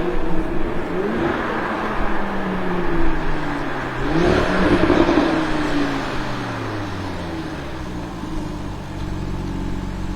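Audi RS3 Sportback's turbocharged 2.5-litre five-cylinder engine through an Armytrix aftermarket exhaust, revving up and down several times. The highest rev comes about four to five seconds in, then the pitch falls slowly before climbing again near the end.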